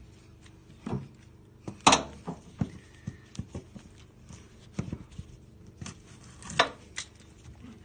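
Scattered knocks, taps and thuds of handling and moving about, the loudest about two seconds in and another near the end.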